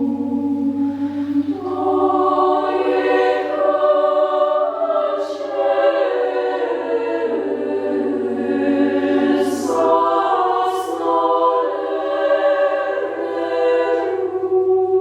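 Women's choir singing in several parts, holding long notes that shift from chord to chord, with a few sharp sibilant consonants. A faint steady low hum lies under the singing.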